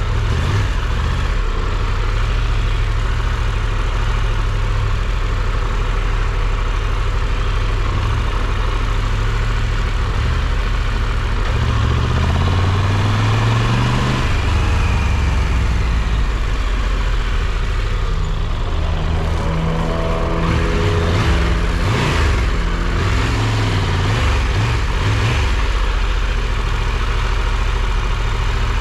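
Triumph Tiger 1200's three-cylinder engine running under way, with steady wind and road noise. The engine's pitch rises about twelve seconds in as it accelerates.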